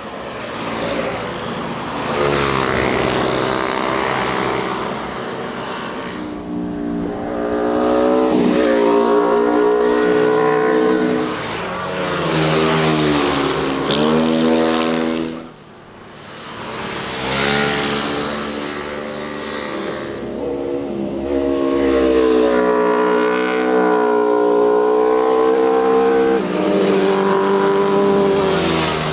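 Motorcycles riding past one after another, engines revving with pitch climbing and dropping through the gears. There is a brief lull about halfway through.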